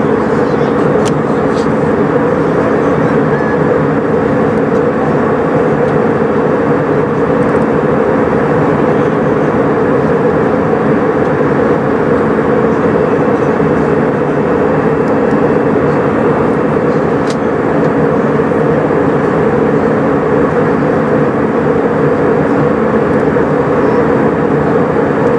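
Airbus A320 engines and rushing air heard from inside the passenger cabin during the climb after take-off: a loud, steady, unchanging drone.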